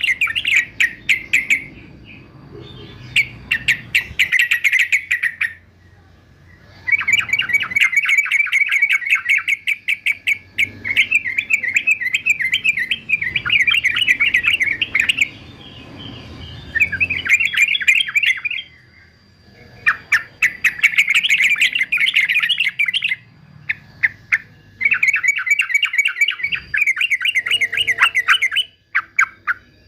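Male yellow-vented bulbul (trucukan) chattering loudly in long, rapid runs of harsh notes, a few seconds each, broken by short pauses.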